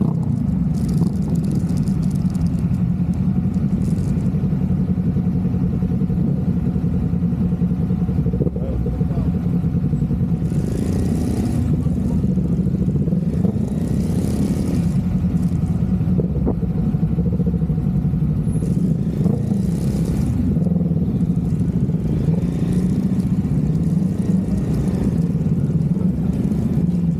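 Triumph motorcycle engine running steadily under way, a continuous low drone, with a few short bursts of hiss over it.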